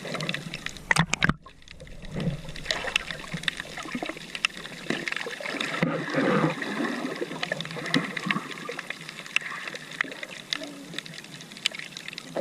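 Seawater sloshing and trickling, with many small scattered clicks and knocks, as sea urchins are gathered by hand in the shallows.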